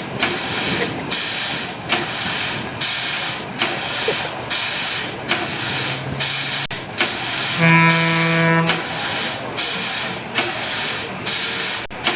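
Fowler steam traction engine working, its exhaust chuffing in a steady beat of hissing puffs about twice a second. About eight seconds in, a low horn-like tone sounds for about a second over the chuffing.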